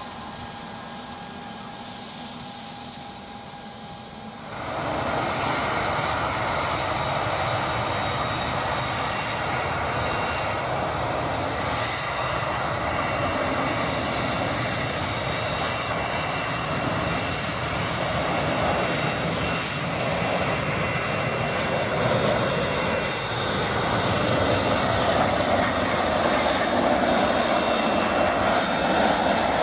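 A quieter, steady jet-engine hum with a few faint whining tones, then, after about four seconds, the loud, steady roar of a Boeing 737-800's CFM56 turbofans as the jet arrives, swelling a little near the end.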